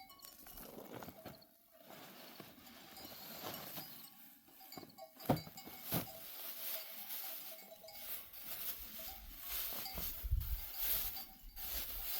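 A flock of sheep and goats moving about, with bleats and the clink of bells. There are two sharp knocks about five and six seconds in.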